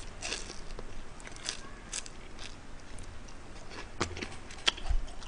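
A person chewing food close to the microphone, with irregular crunches and small clicks. A few sharper crunches come about four to five seconds in.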